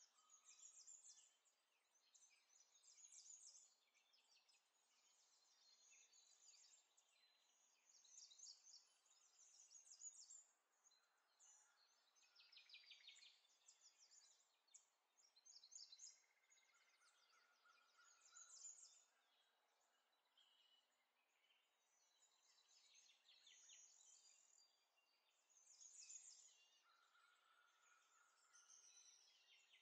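Faint birdsong: small birds chirping and trilling on and off, with a few short held whistles, over an otherwise near-silent room.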